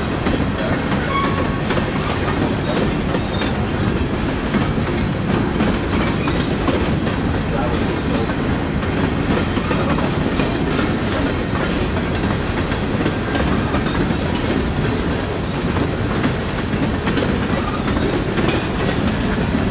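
Freight train boxcars rolling past: a steady rumble and clatter of steel wheels on the rails that goes on without a break.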